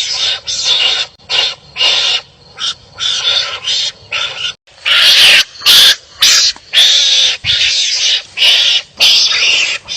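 Wild animals giving harsh, rasping calls one after another, nearly two a second, as in a fight. The calls get louder about halfway through.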